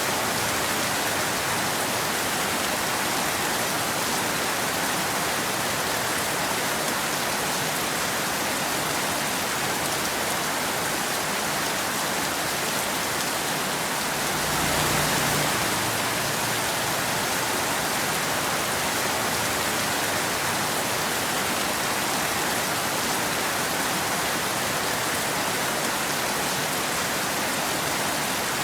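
Steady, even rain falling, with one brief, slightly louder and deeper swell about halfway through.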